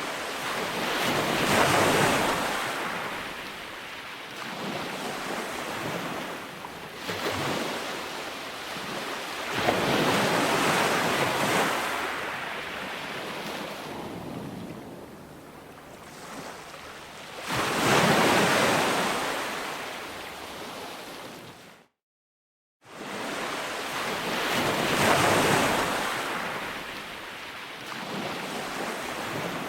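Calm ocean waves breaking and washing up a beach, one swell of surf every seven or eight seconds. The sound cuts out completely for about a second roughly three quarters of the way through.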